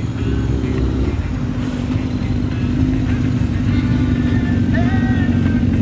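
Vehicle engines running steadily in a low hum, with a short rising note about five seconds in.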